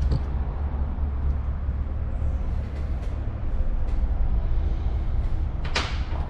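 Steady low background rumble, with a short sharp clink of small metal engine parts being handled near the end.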